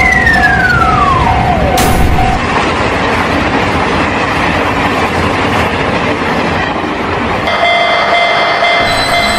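Train passing a railroad crossing: a loud, steady rumble throughout. A tone slides steeply down in pitch over the first second and a half, and a steady tone rings through the first two seconds. About three quarters of the way in, a set of steady crossing-alarm tones comes in.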